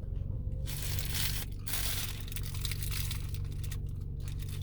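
Paper food packaging rustling and crinkling in two stretches, with a steady low hum underneath.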